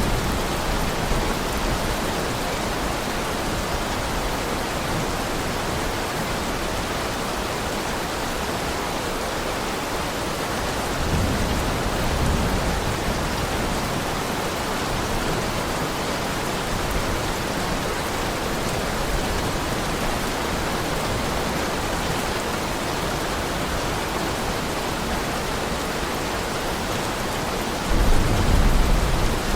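Heavy rain falling steadily as an even hiss, with two low rumbles, one about eleven seconds in and a louder one near the end.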